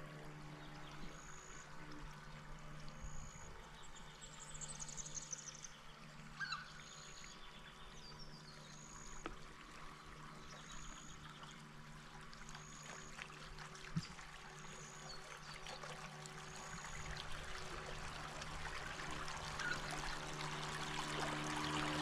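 Gentle water trickling and lapping around a radio-controlled model tugboat under way, over a steady low hum. A short high peep repeats about every second and a half, with a few brief high chirps.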